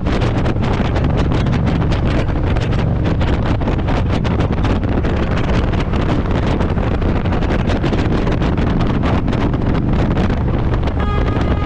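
Harley-Davidson Road Glide's V-twin engine and exhaust running steadily under way, with heavy wind rushing over the microphone. Near the end a steady pitched tone with overtones comes in over it.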